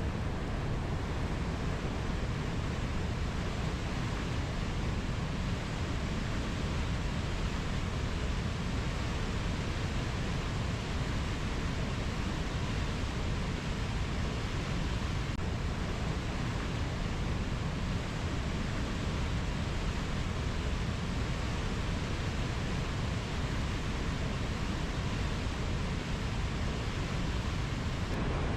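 Rainforest ambience: a steady, even rushing noise, heaviest in the low end, with no distinct animal calls.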